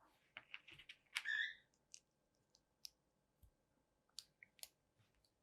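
Small plastic LEGO pieces being handled and snapped together: scattered faint clicks, with a brief longer rattle about a second in.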